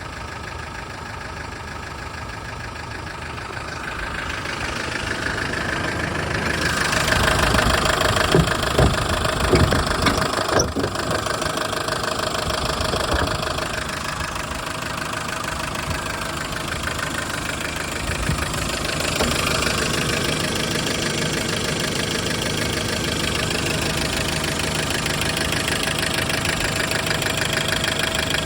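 A motor running steadily, growing louder over the first several seconds, with a few sharp knocks about a third of the way through before it settles into an even run.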